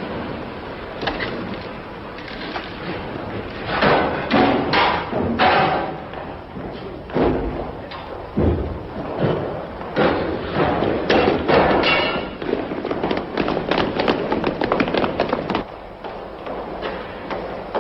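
A busy, irregular run of thumps, knocks and clatter, some strikes close together and loud, with quieter stretches between.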